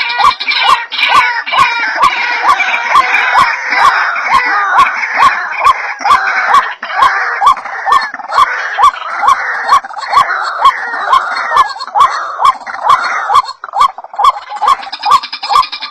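White-breasted waterhens calling: a dense, continuous chorus of harsh calls with a sharp rising note repeating about three times a second. It breaks off briefly a little after thirteen seconds, then starts again.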